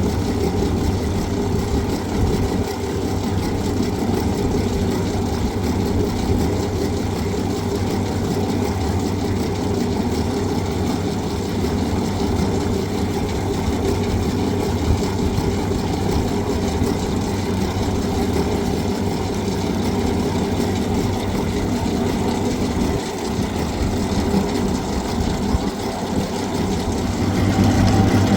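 An engine running steadily at idle, a constant low hum that gets a little louder near the end.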